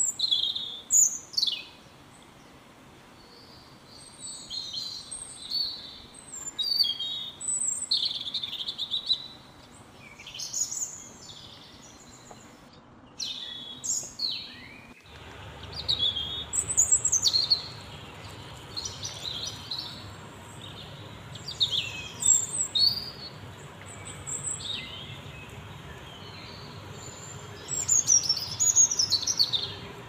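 Small birds chirping: repeated short, high-pitched chirps, many sliding quickly downward, coming in bursts, over a faint steady background hum in the second half.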